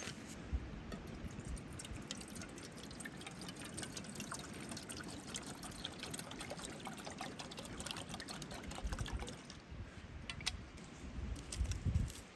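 Water trickling and pouring, with many small crackles and ticks throughout and a few soft low thumps near the end.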